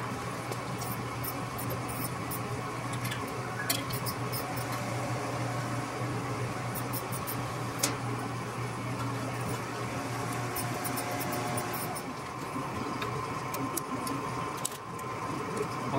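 Scattered small clicks and clinks of hand tools and metal hardware being handled during an exhaust install, over a steady low hum.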